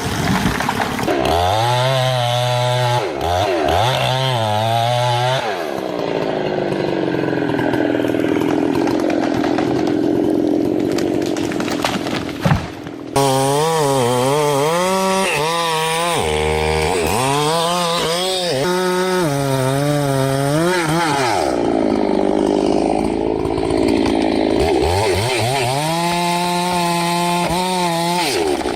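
Petrol chainsaw cutting wood, its engine revving up and dropping back again and again as the cut loads and eases. About halfway through, the sound dips and breaks off briefly before the saw picks up again.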